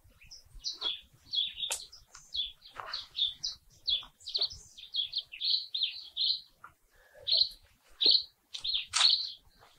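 Small birds calling with many short, high chirps, several a second. A few faint scrapes and knocks come from the soil and roots as a tree's root ball is worked out of its plastic tray.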